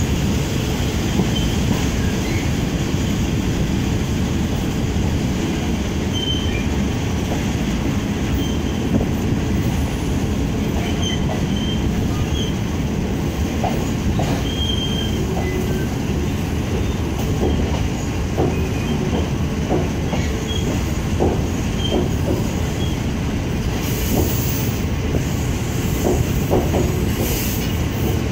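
Passenger coach of a diesel-hauled State Railway of Thailand ordinary train rolling over station trackwork: a steady low rumble with clacks over rail joints and points, more frequent in the second half, and a few short high wheel squeals.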